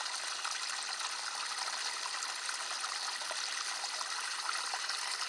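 Running water: a steady rushing and trickling with small scattered drips.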